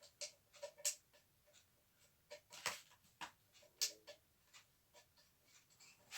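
Faint, irregular clicks, taps and short scrapes of vacuum cleaner parts being handled during reassembly, with the loudest clicks about one, two and a half and four seconds in.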